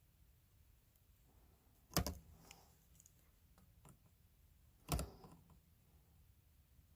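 Two sharp knocks about three seconds apart, each with a brief rattle after it, from something being handled or set down on a workbench.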